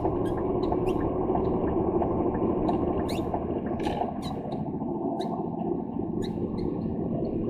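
Steady engine and road drone inside a lorry cab, with frequent short squeaks and creaks from the cab.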